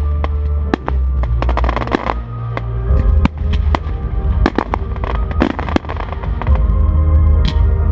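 Fireworks going off: shells bursting at irregular intervals, with a quick run of crackling bangs about one and a half to two seconds in, over loud music.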